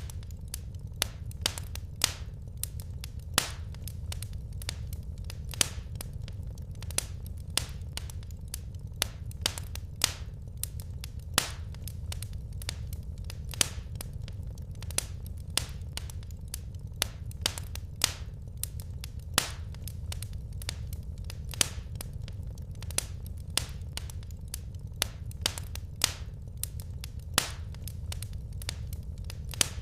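Wood fire crackling: irregular sharp pops and snaps from the burning logs, a few every second with some louder than the rest, over a steady low rumble of the flames.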